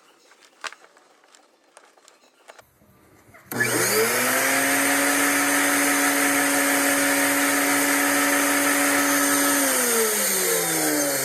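Mytee 8070 carpet extractor's vacuum motor switched on after a few faint clicks, spinning up to a steady high whine. About ten seconds in it is switched off and winds down with a falling pitch. It now runs on a new switch: the old, worn switch was passing too little power to start it.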